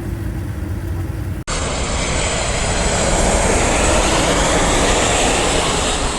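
Jet airliner passing low overhead on landing approach: a loud, even rushing roar that builds, peaks about four seconds in and slowly fades. Before it, a steady low rumble stops abruptly about a second and a half in.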